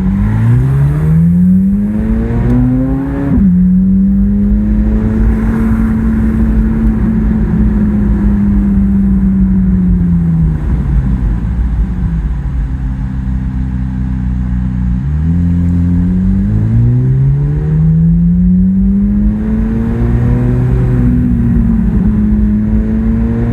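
Ferrari V12 engine with a custom exhaust, pulling hard: the revs climb, drop at a gear change about three seconds in, then hold steady. The revs fall away, and after another sudden shift about fifteen seconds in they climb again.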